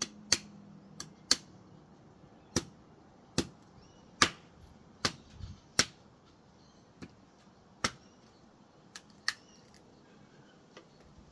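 Coconut shell being struck to crack it open: about a dozen sharp knocks at an uneven pace, roughly one a second, growing sparser near the end.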